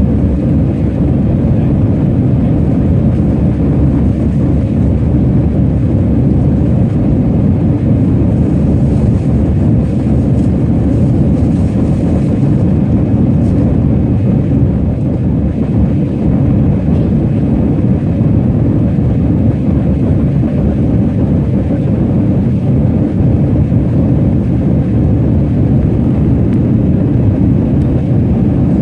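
Jet airliner noise: a loud, steady low rumble that holds an even level without rising or falling.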